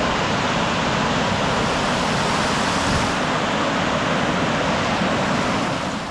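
Creek water rushing steadily, an even hiss with no rhythm, which cuts off abruptly near the end.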